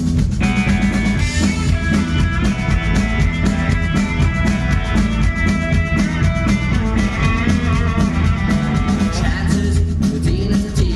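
Live rock band playing an instrumental passage between sung lines, loud, with a steady drum-kit beat under bass and guitars.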